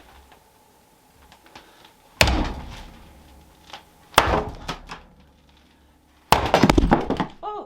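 Three heavy thumps about two seconds apart, the last one a rattling run of quick knocks lasting about a second.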